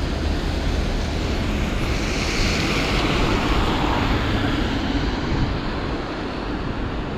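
Traffic on a wet street: a vehicle passes, its tyre hiss swelling and fading over a few seconds above a steady low rumble.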